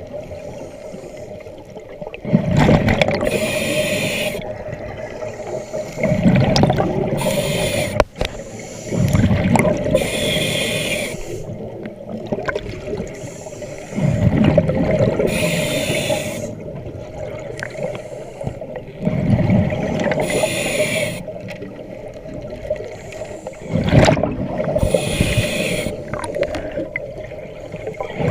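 Underwater breathing of a diver through a regulator: a hissing inhale and a gurgling rush of exhaled bubbles, repeating about every four to five seconds over a steady hum.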